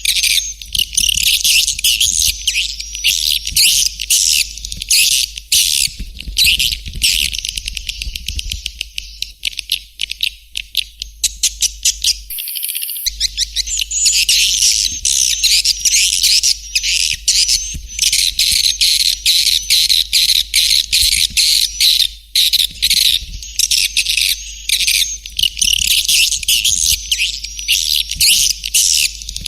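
Swiftlet calling track of the kind played to lure swiftlets: dense, high twittering chirps from many swiftlets at once. About a third of the way through the chirps give way to a run of rapid clicks, then there is a brief break before the twittering starts again.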